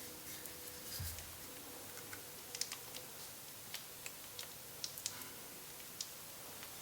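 Faint, irregular light clicks and taps, a dozen or so scattered sharp ticks over quiet room hiss with a faint steady hum.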